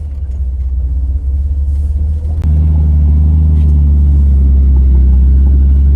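Jeep engine pulling under load on a steep rock climb, a steady low drone. A click about two and a half seconds in, after which the engine is suddenly louder and holds steady.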